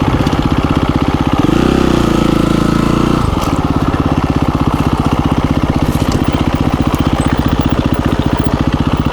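KTM 350 EXC-F dirt bike's single-cylinder four-stroke engine running as the bike is ridden. The engine revs up about a second and a half in and drops back a little after three seconds, then runs on at a steady throttle.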